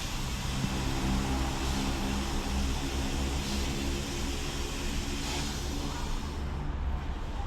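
Automatic car wash machinery running: a steady motor hum under a wide hiss of spraying water or air, with a whooshing swell about every two seconds.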